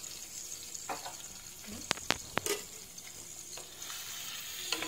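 Marinated chicken pieces sizzling in hot oil in a kadai as a wooden spatula stirs them, with three sharp taps of the spatula on the pan about two seconds in.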